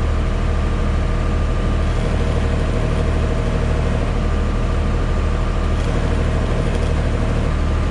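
An engine running steadily with a deep hum and a few steady higher tones, with no change in speed.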